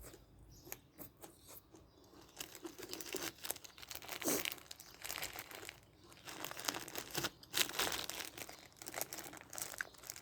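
A plastic food bag crinkling and being torn open, in irregular crackly bursts from about two seconds in.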